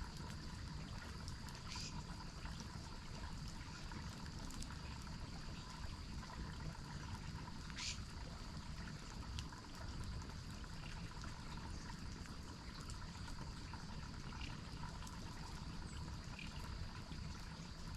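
Water running steadily, as from a waterfall or forest stream, under a steady high-pitched tone and a few short sharp ticks, the clearest about two seconds and eight seconds in.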